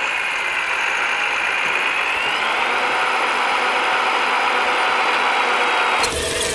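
A radio-controlled construction machine model running: a steady whirr of its small motors, with a faint whine rising in pitch about two seconds in. The sound changes abruptly near the end.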